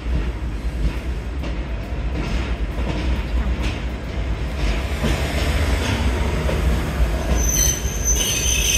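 Toyama Chiho Railway electric train rolling past at low speed: a steady low rumble with occasional wheel clacks, and a high wheel squeal starting near the end.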